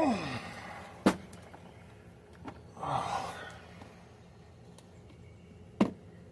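Two sharp, single metal knocks about five seconds apart as rear differential parts are handled. A short falling grunt or sigh comes at the start, and a brief rustle or scrape about three seconds in.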